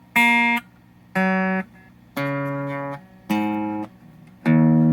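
Jet JS300 electric guitar on its bridge humbucker split to a single coil, played through a blackface Champ tube amp with a 12-inch alnico speaker. Five short picked notes, about one a second, each stopped after less than a second.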